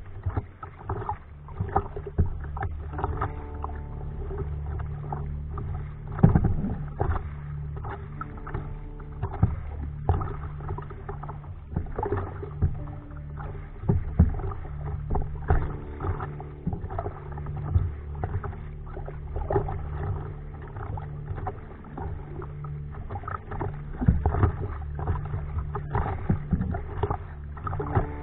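Kayak paddling on the sea: irregular splashes and knocks of the paddle and water against the hull, over a steady low hum.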